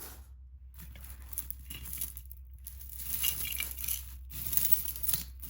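Costume jewelry pieces clinking and rattling against each other as they are handled and sorted by hand. The clatter starts just under a second in and carries on.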